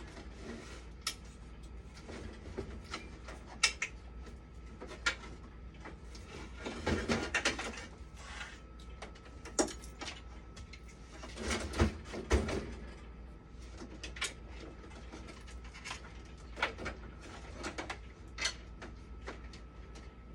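Scattered clicks, taps and clatter of hands handling parts and tools during repair work. There are two busier stretches of handling about seven and twelve seconds in, over a steady low hum.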